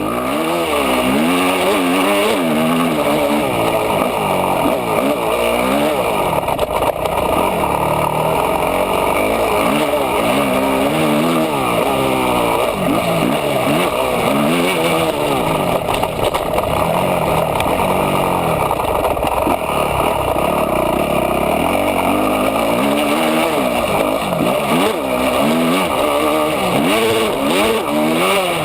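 250 cc four-stroke motocross bike engine, heard close up from an onboard camera, revving up and dropping back again and again as the rider accelerates, shifts and rolls off around the track.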